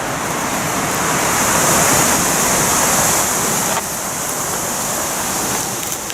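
Wind rushing through the woodland trees, a steady hiss that swells in the first couple of seconds and eases suddenly about four seconds in.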